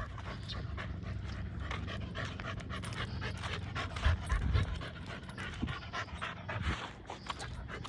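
An American pit bull terrier puppy panting quickly and steadily, short breaths following one another in an even run, with a low bump about four seconds in.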